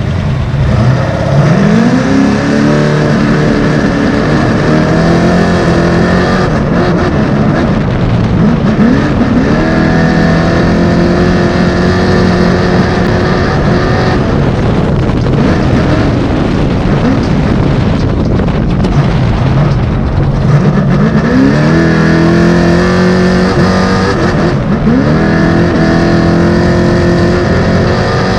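Trophy truck engine under hard acceleration, its pitch climbing sharply and then levelling off several times as it pulls through the gears, over a constant loud rush of noise.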